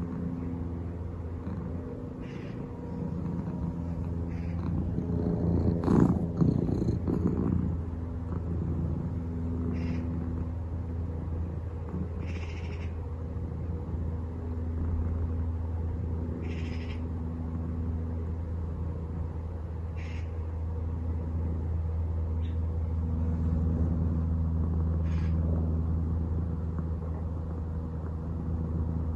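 A cat purring, over a steady low drone that swells in the second half, most likely the aeroplane passing overhead. A louder sound breaks in about six seconds in.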